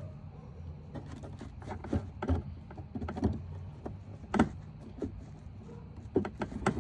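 Hands working plastic tail-light parts and their clips: a scatter of sharp clicks and knocks, more of them near the end, over a steady low hum.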